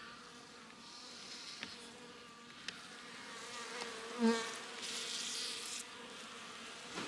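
Honeybees buzzing as a steady hum from an opened hive, with one bee buzzing louder about four seconds in. A few faint clicks and short rustling noises sit under the hum.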